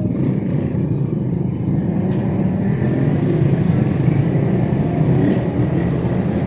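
Steady rumble of road traffic and vehicle engines, a little louder around the middle.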